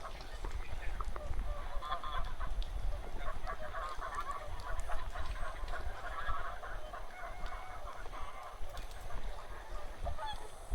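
A large flock of wild geese calling continuously, many short honks overlapping into a constant din, with a steady low rumble underneath.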